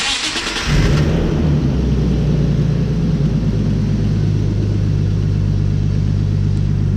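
BMW engine cranked by the starter motor, catching after under a second and settling into a steady idle. It starts and runs normally on a newly fitted MAP sensor, without the earlier beeping whine.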